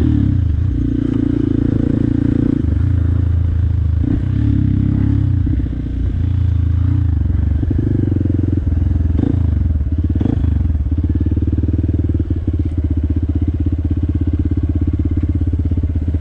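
Modified Hero XPulse 200 single-cylinder motorcycle engine running under way, its note rising and falling with the throttle, easing briefly about six seconds in, then holding steady.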